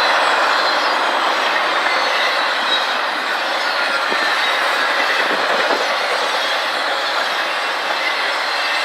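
CSX intermodal freight train rolling past: a steady noise of steel wheels running on the rails.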